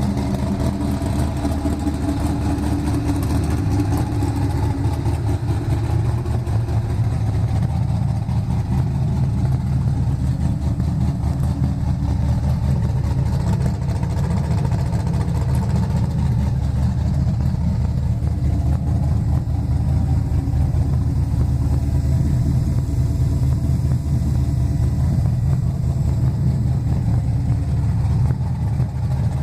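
Nissan Silvia's engine idling steadily with a deep, low exhaust note, a sound likened to snoring.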